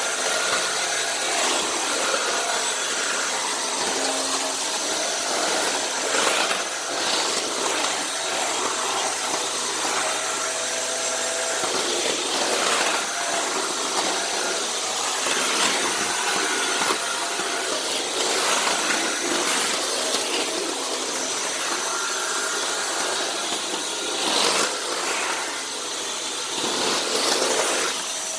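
Dyson Cinetic canister vacuum running steadily, a whooshing suction noise with a steady motor whine, while the cleaner head is pushed back and forth over the floor, with a few short knocks and scrapes.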